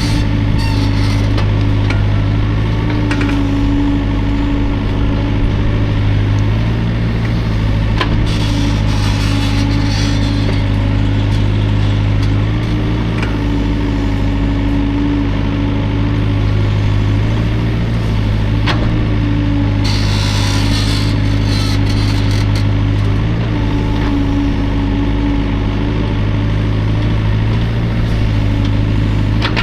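Hydraulic excavator engine running steadily under varying load, its drone rising and falling slightly, with a few sharp knocks and a stretch of hiss about twenty seconds in.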